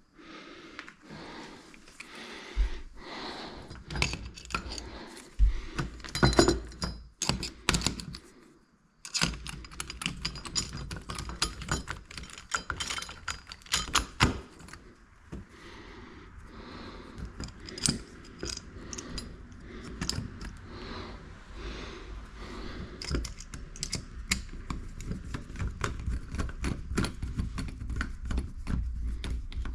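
Dense, irregular clicking, clattering and knocking of small hard objects being handled, over a low rumble, with a brief pause about eight or nine seconds in.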